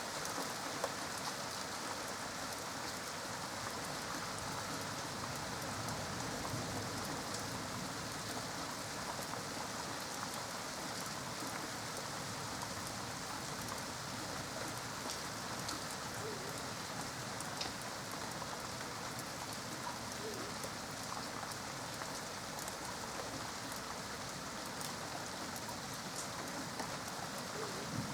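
Steady rain falling during a thunderstorm, an even hiss with scattered drop ticks.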